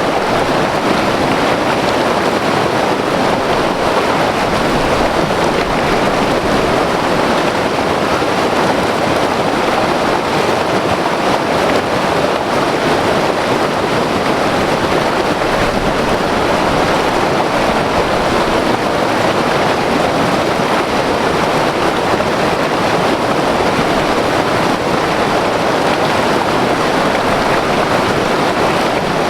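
White water river rushing over rapids: a loud, steady roar of churning water.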